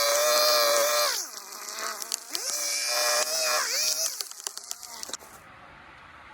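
Hedge trimmer running with a high motor whine and blade chatter, winding down about a second in, speeding up again, then winding down and stopping about five seconds in. Sharp clicks come between the runs.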